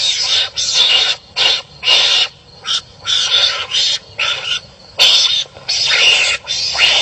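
Wild animals fighting, giving a rapid series of harsh, raspy cries, about one a second, with short gaps between them.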